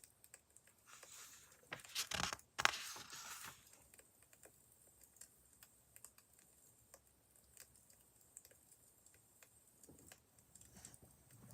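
Wood fire crackling: irregular small pops and snaps, with a louder burst of crackle and hiss about two seconds in.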